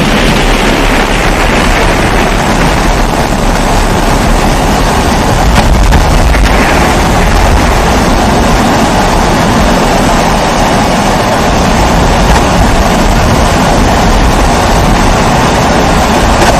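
Pressurized kerosene stove (primus-type babour) burning with a steady, rhythmic hum, swelling slightly about six seconds in.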